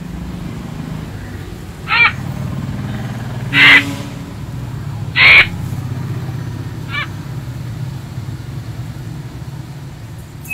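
A bird calling four times in short separate calls, the second and third loudest, over a steady low hum.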